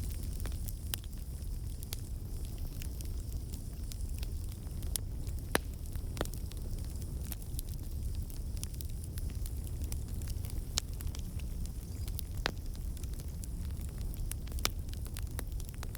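Campfire burning: a steady low rumble of flames with irregular sharp crackles and pops, a few louder snaps scattered through.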